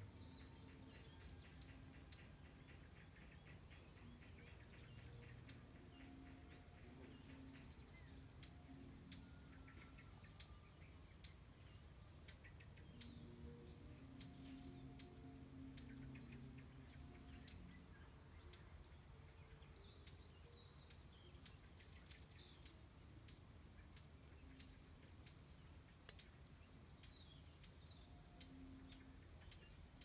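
Many faint, short bird chirps and calls scattered throughout, over a quiet steady background hum.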